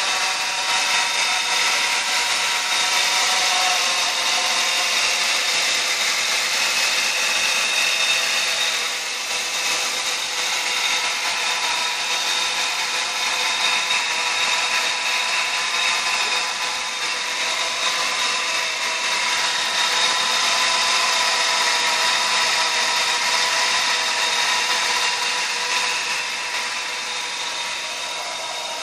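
The 3800 V6 engine of a 2000 Buick LeSabre running under the open hood, with a steady whirring whine of several high tones that swells and eases a little. It is the noise whose cause the owner can't find.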